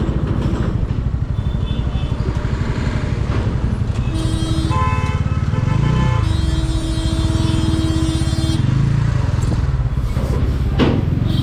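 Motorcycle engine running steadily while riding in traffic. A vehicle horn sounds briefly about four seconds in, then a longer horn blast of about two seconds follows.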